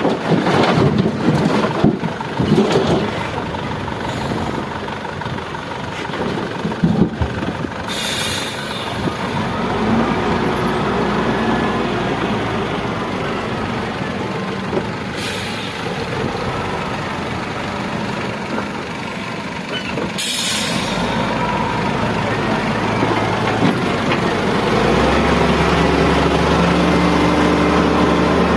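A heavy diesel truck engine running, with a few clanks in the first seconds and three short air-brake hisses. The engine grows louder near the end.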